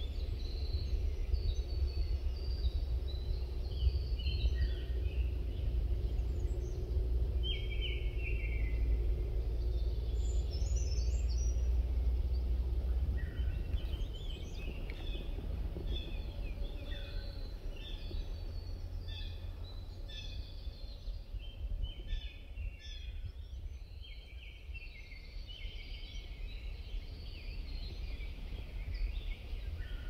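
Several wild birds chirping and singing in a spring woodland, short calls and trills scattered throughout, over a steady low rumble that drops off about thirteen seconds in.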